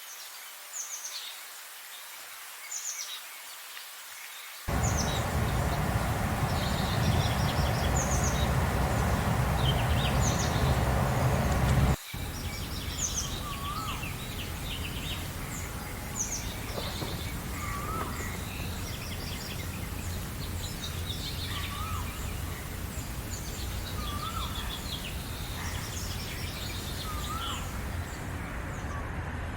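Several songbirds chirping and singing over a steady background rumble. The rumble cuts in abruptly about five seconds in and drops suddenly a few seconds later. From then on, a short lower rising-and-falling call repeats about every two seconds among the high chirps.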